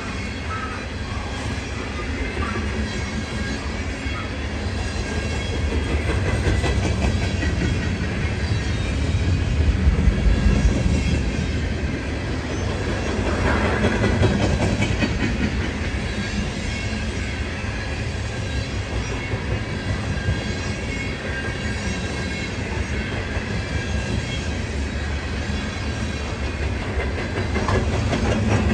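Freight train rolling past, a steady rumble of wheels on rail that swells a little partway through.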